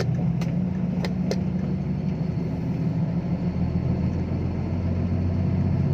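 Six-wheel diesel dump truck's engine running steadily as the truck drives, with a few light clicks in the first second and a half.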